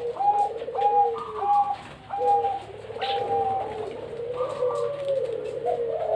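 Zebra doves (Bangkok-strain perkutut) cooing: runs of short, quick coo notes, with more than one bird calling over each other.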